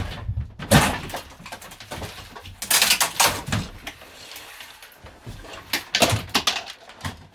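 Rough demolition work inside the camper van: irregular knocks, cracks and scraping as interior fittings are wrenched and pried out. The louder clusters come about a second in, around three seconds in and again around six seconds in.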